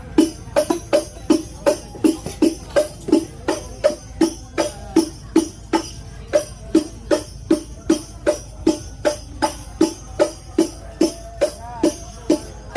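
Hadroh percussion playing a steady beat: frame drums struck about three times a second, with the jingles of a tambourine ringing on each stroke, as a sound check.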